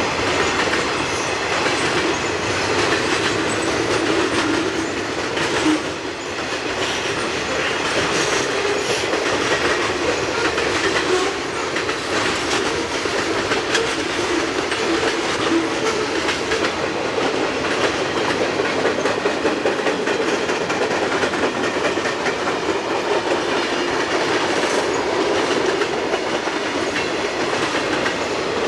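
Freight train cars rolling steadily past, their steel wheels clicking over the rail joints with a continuous rumble.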